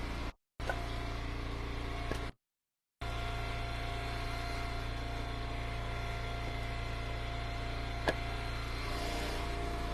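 Engine of an Eastonmade Ultra wood splitter running steadily, with one sharp click about eight seconds in. The sound cuts out completely a few times in the first three seconds.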